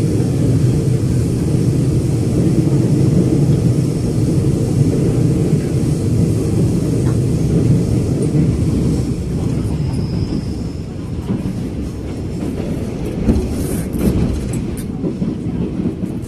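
Inside a Taiwan Railways commuter electric multiple-unit train under way: a steady low rumble from the wheels and running gear, easing slightly past the middle, with a few knocks near the end.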